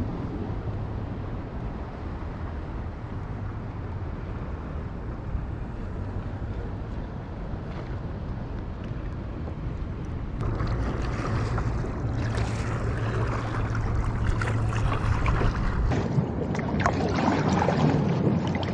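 Wind and water noise, over a steady low hum for the first half. About halfway through it turns to louder, rougher wind and splashing noise.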